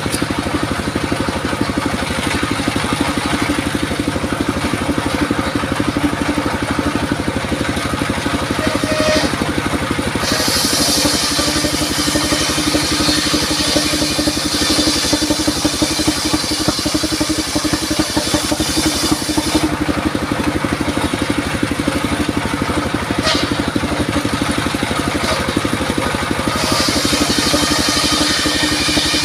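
Engine-driven circular sawmill running steadily, its blade cutting through durian timber for about ten seconds from a third of the way in, and again near the end.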